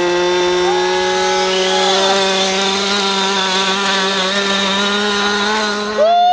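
A 1/5-scale RC truck's small two-stroke gas engine is held at high revs under load as it drags a weight sled. The note is steady, and its pitch creeps slowly upward.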